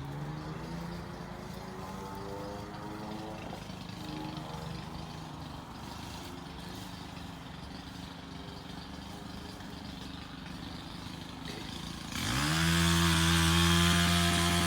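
Small petrol engine idling unevenly, then revved up sharply about twelve seconds in and held at a steady high speed.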